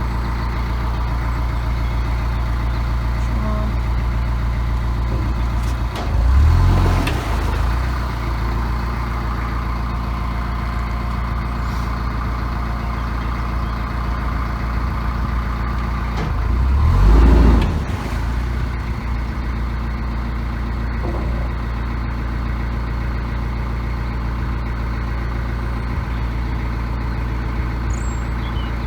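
Narrowboat engine running steadily under way, a low even hum, with two brief louder swells about six seconds in and again about sixteen seconds in.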